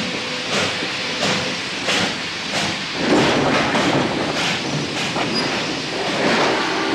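Railway carriage in motion: wheels clacking over the rail joints in an even rhythm, about three beats every two seconds, over a steady hiss.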